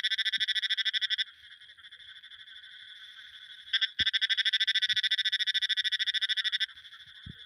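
Frogs calling in fast pulsed trills of about ten pulses a second: a loud call that stops about a second in, a fainter chorus, then a second loud call of nearly three seconds from about four seconds in.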